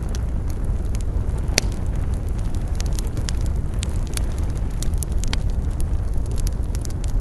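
Campfire burning, with frequent wood crackles and pops over a steady low rumble; one louder pop about a second and a half in.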